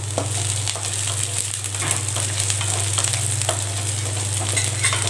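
Chopped onion, garlic, ginger and green chilli sizzling in hot oil in a nonstick kadai as they are sautéed soft, with a wooden spatula scraping and clicking against the pan as it stirs. A steady low hum runs underneath.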